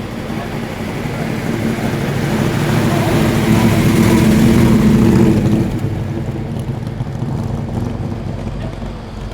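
A Ford Falcon XY muscle car's engine running as the car drives past close by, growing louder to a peak about four to five seconds in, then fading away.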